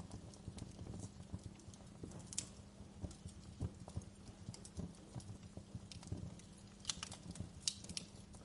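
Wood fire in a fireplace crackling: a steady patter of small irregular cracks over a low rumble of flame, with a few sharper pops about two seconds in and near the end.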